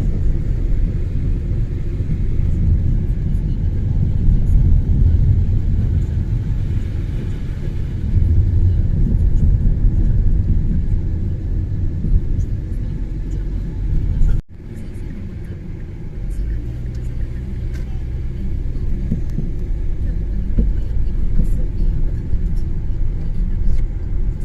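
A car driving on a snowy road: the steady low rumble of engine and tyres. It breaks off for an instant about fourteen seconds in, then carries on a little quieter and smoother.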